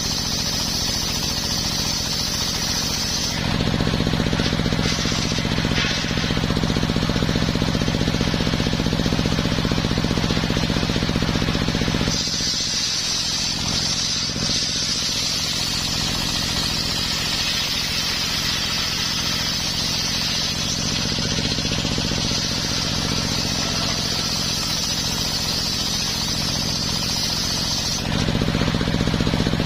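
Engine-driven homemade circular sawmill sawing coconut wood. The engine runs steadily throughout. A high cutting noise from the blade in the wood lasts until about three seconds in, and again from about twelve seconds to a couple of seconds before the end. Between the cuts the engine and blade run alone, the engine's low note standing out more.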